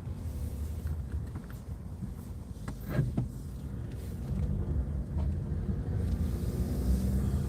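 A car engine running with a low rumble, growing louder and steadier near the end, with a brief sharp sound about three seconds in.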